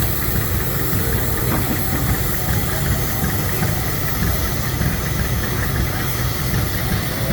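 Heavy tractor engine running steadily at a tractor pull: a low, rapidly pulsing rumble.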